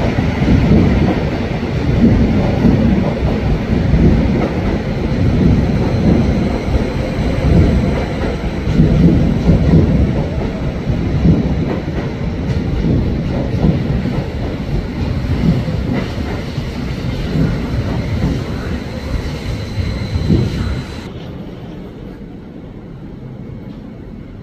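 A train moving through the station past the platform: a loud rumble with a repeated beat of wheels over the rail joints and a thin steady high whine. About three quarters of the way through, the whine cuts off and the sound drops away sharply.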